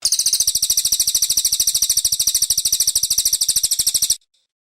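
Brown cililin songbird singing a fast, high-pitched rattling trill of about a dozen notes a second, held steady for about four seconds and then cut off suddenly.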